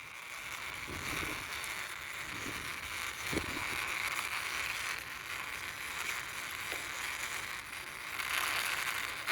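Plastic toy vehicle pushed by hand, its small wheels rolling with a steady rattly whir that gets a little louder near the end.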